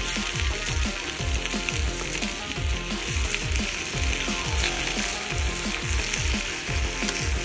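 Chicken pieces frying in hot oil in a cast-iron pot over a wood fire, a steady sizzle. Under it runs background music with a deep bass beat, about two to three hits a second.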